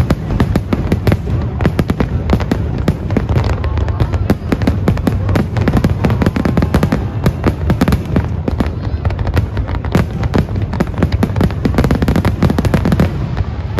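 Fireworks display: a dense, continuous barrage of aerial shell bursts, many overlapping bangs a second over a steady deep rumble.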